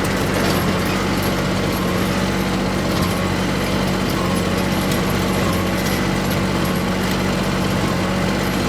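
Small tractor engine running steadily at a constant speed, with a fine high rattle over it.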